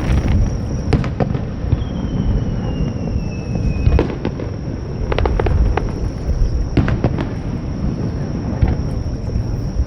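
Aerial fireworks going off: a constant low rumble of bursting shells with sharp cracks every second or two. A falling whistle starts about two seconds in and ends in a crack about four seconds in.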